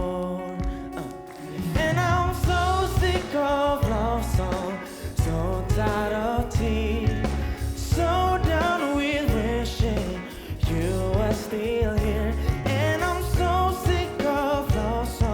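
A solo singer performing a pop song with a band, the voice wavering with vibrato over bass and drums.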